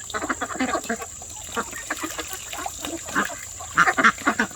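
A flock of Cayuga ducks quacking while they feed, many short overlapping calls, loudest just before the end.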